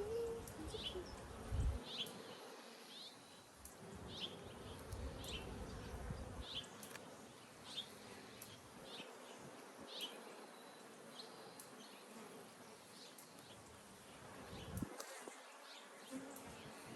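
Honey bees buzzing around an open hive: a steady, low-level hum, with short high chirps about once a second over it.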